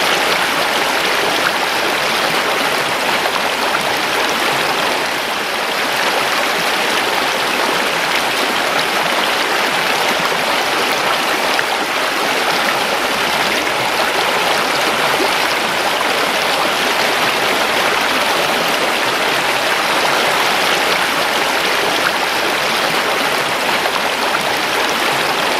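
Creek water running and rushing steadily over stones, a continuous splashing rush.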